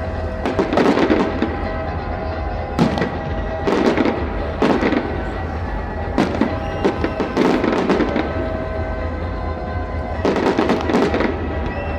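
Fireworks bursting in a steady series of bangs and crackles, about eight bursts, over music playing with held tones.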